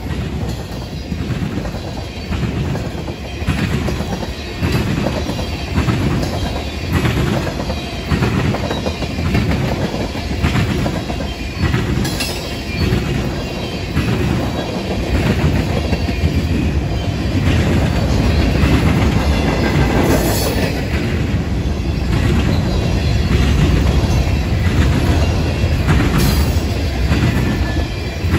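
Freight train tank cars rolling past close by: a steady rumble of wheels on rail with a regular clickety-clack of wheel trucks over the rail joints, growing louder about halfway through.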